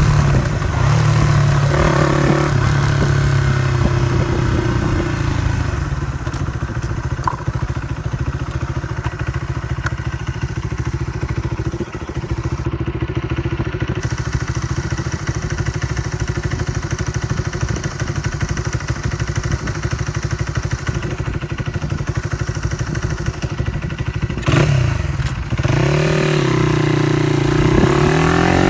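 Honda CY50/80 small single-cylinder four-stroke motorcycle engine running through an aftermarket exhaust. It is revved briefly at the start, idles steadily through the middle, and is revved again near the end.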